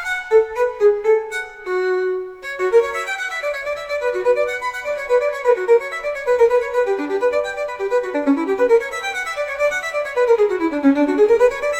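Baroque violin music: a few held notes, then fast running passages of quick notes, with a scale that runs down and back up near the end.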